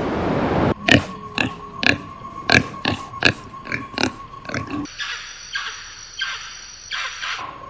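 An animal giving a fast series of short calls, about three a second, after a brief stretch of rushing noise; the calls turn fainter about five seconds in.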